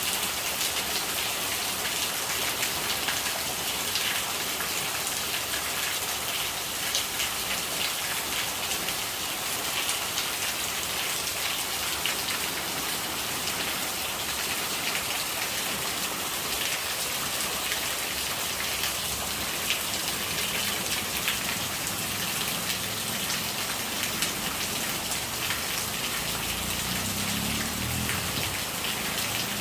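Steady rain falling, a dense hiss of countless drops striking surfaces. Over the last few seconds a deeper sound of gurgling rainwater rises beneath it.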